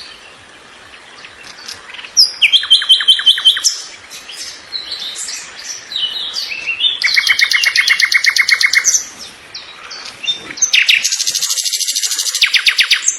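Songbirds singing: three loud trilled phrases of rapidly repeated high notes, each about two seconds long, with scattered shorter chirps between them.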